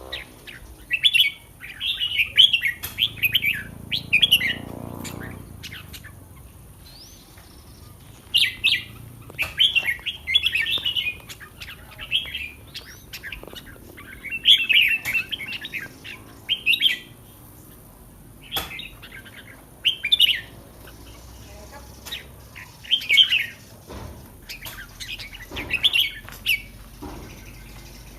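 Red-whiskered bulbul singing: short, quick, warbling phrases repeated again and again with brief pauses between them.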